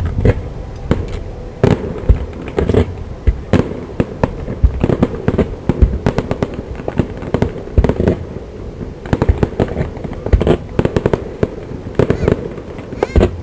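Fireworks going off in a rapid, irregular barrage of sharp bangs, several a second at times, each echoing after it.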